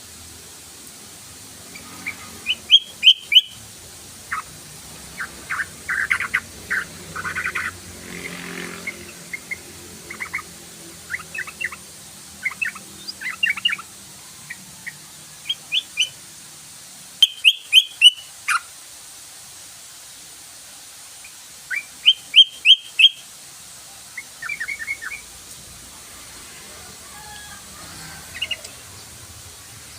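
Yellow-vented bulbul (trucukan) song: bubbly phrases of short chirped notes, repeated in clusters every second or two. Three loud groups of sharp notes stand out, about three seconds in and twice past the middle.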